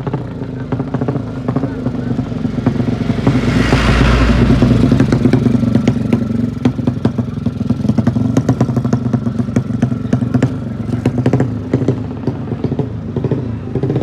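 Motorcycle engine running, a steady low note broken by rapid clicks, with a louder rush of noise swelling about four seconds in.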